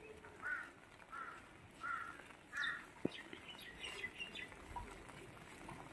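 A bird calling four times in a row, one call about every two-thirds of a second, then a few softer, higher chirps.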